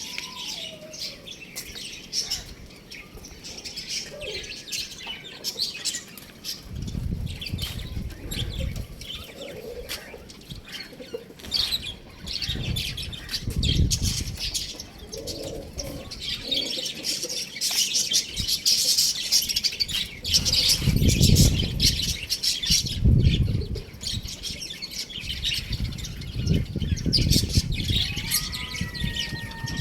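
Pet birds chirping continuously, with several bursts of wing flapping.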